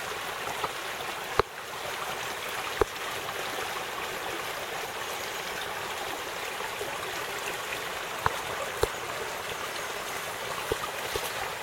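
Creek water rushing steadily over and through a cinder-block dam. A few sharp clicks stand out, two of them loud, about a second and a half and three seconds in.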